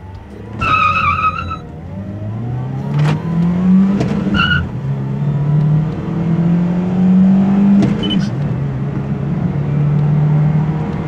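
Toyota Calya's 1.2-litre dual VVT-i four-cylinder engine at full throttle, heard inside the cabin. The revs climb through the gears of the manual gearbox and drop back at upshifts about four and eight seconds in. A brief high squeal, likely the front tyres spinning at launch, comes about a second in.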